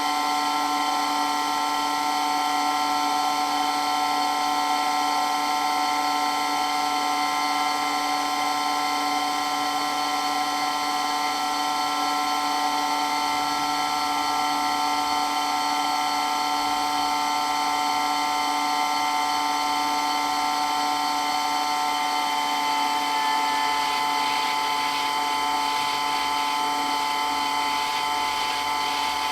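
Water pump running steadily with a loud, high-pitched whine made of several steady tones. About two-thirds of the way through, some of the higher tones shift slightly.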